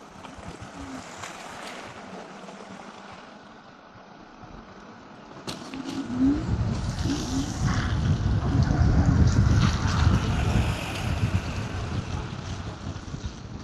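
Wind buffeting the action camera's microphone during a ride on an electric scooter, over a steady hiss. It is lighter at first and turns into a loud, gusty rumble about six seconds in.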